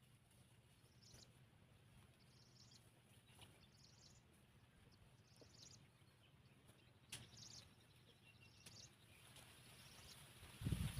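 Faint bird chirping outdoors: short high calls repeating roughly once a second over a quiet background, with a low thud near the end.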